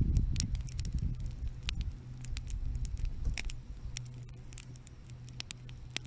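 Campfire crackling: burning wood snapping and popping in scattered sharp clicks, over a low rumble that eases after the first second or two.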